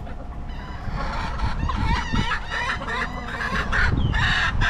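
Chicken calling close by: a warbling, wavering call from about a second in, then a run of short, repeated squawks at about three a second near the end.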